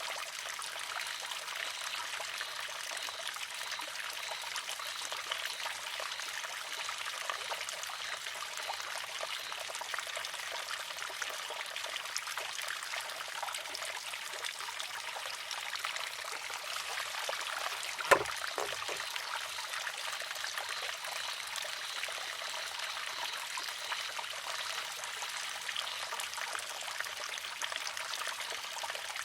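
Water trickling steadily into a wooden shishi-odoshi, with one sharp clack about two-thirds of the way through as the filled arm tips, empties and strikes its rock.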